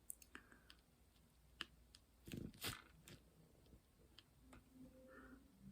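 Near silence: room tone with faint, scattered small clicks and taps, and a brief louder rustle with clicks about two and a half seconds in.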